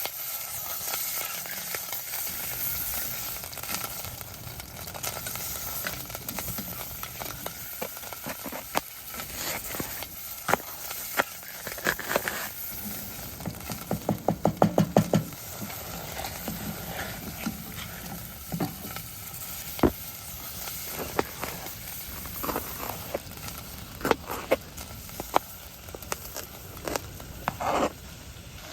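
Meat sizzling in hot oil as it browns in a pot on a wood stove, with a utensil stirring and clicking against the pot. Around the middle comes a quick run of about ten taps.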